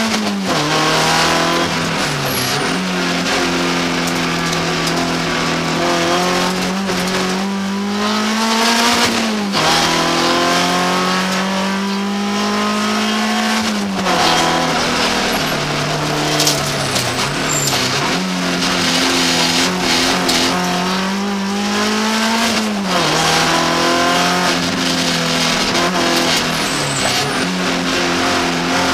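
BMW 318 iS four-cylinder rally engine heard from inside the car, pulling hard through the gears on a special stage. Its pitch climbs and steps down at each upshift, and every few seconds falls away sharply as the car brakes and downshifts for a corner before climbing again.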